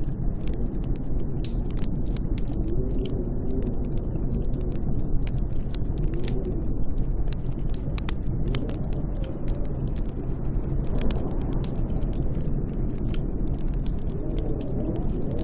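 Snowstorm wind: a steady low rushing with a faint howl that rises and falls, overlaid by frequent sharp crackling clicks.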